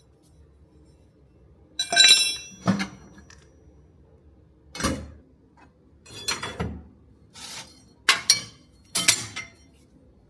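Small metal pieces being handled and set down: about seven separate clinks and knocks, the first and loudest, about two seconds in, with a short ring.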